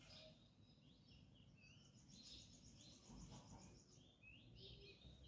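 Faint birdsong: scattered short chirps and whistles, with a fast, high trill of about ten notes a second a couple of seconds in.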